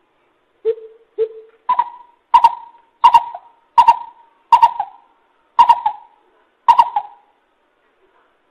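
Greater coucal calling: a series of about nine deep hooting notes, spaced a little under a second apart. The first two are lower and fainter; the rest are higher-pitched and louder.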